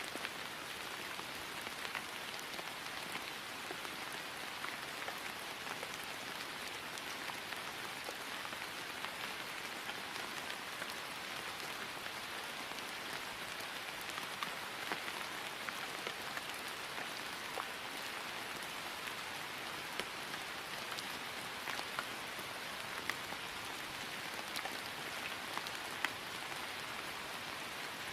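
Steady rain falling on grass, an even patter with occasional louder individual drops.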